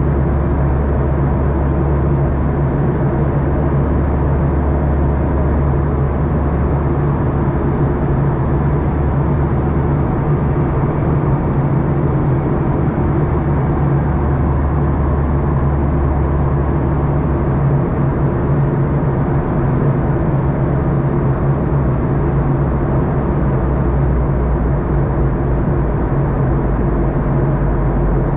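Steady cabin drone of a Boeing 737-800 in flight: its CFM56 engines and the airflow over the fuselage heard from a window seat as a low, even hum with a rushing noise over it, unchanging throughout.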